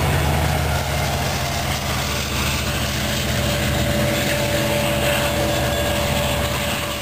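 Long Island Rail Road diesel train of bilevel coaches going by and moving away, its locomotive engine running steadily and growing fainter near the end.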